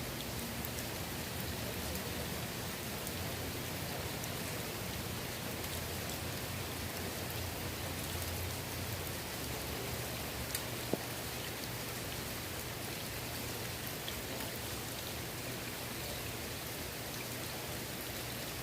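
Steady rain falling onto the water of a swimming pool, an even patter with a couple of sharper single drop ticks about ten seconds in.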